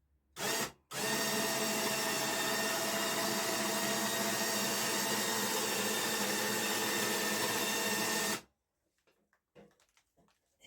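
Electric power-tool motor: a short blip, then a steady run of about seven seconds at one even pitch that cuts off suddenly.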